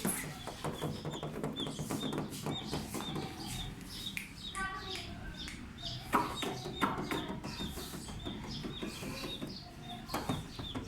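Baby chicks peeping: a rapid, continuous run of short, high cheeps that slide down in pitch.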